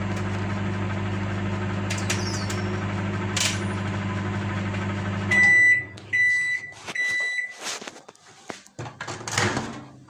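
A 900-watt microwave oven running with a steady hum and a couple of crackles from flowers drying inside. It stops about five seconds in, gives three beeps to signal the end of the cycle, and is followed by a few clicks and knocks.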